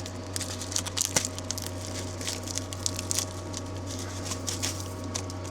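Dried vegetable flakes pattering and crackling as they are shaken from a packet into an instant ramen bowl: a quick, irregular run of small ticks and rustles.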